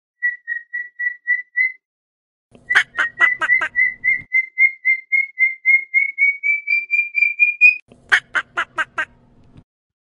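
A bird whistling a long series of short, even notes, about four a second, slowly rising in pitch. Twice a quick run of four or five sharp knocks breaks in over the whistling.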